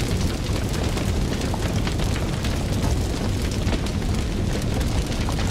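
Fire burning: a steady low roar of flame with frequent sharp crackles and pops.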